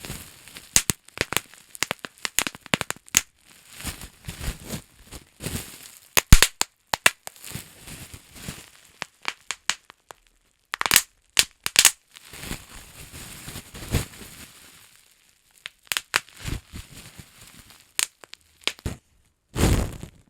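Close-miked bubble wrap being crinkled and popped: many irregular sharp pops and clicks mixed with stretches of crackly crinkling, and a louder crinkle near the end.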